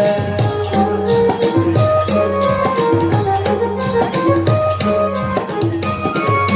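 Instrumental break in a Marathi folk love song: a held melody line over a steady, evenly repeating drum beat with jingling hand percussion like a tambourine.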